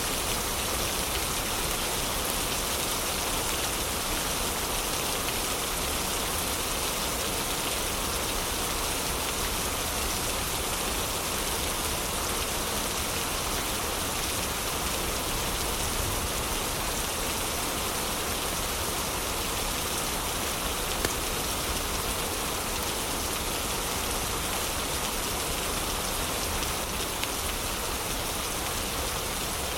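Heavy rain falling steadily, an even hiss of rain on surfaces, with one brief sharp tick about two-thirds of the way through.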